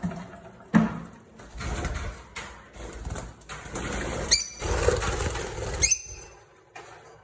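Lovebirds fluttering and flapping their wings in bursts of rustling, with two short, sharp chirps in the second half.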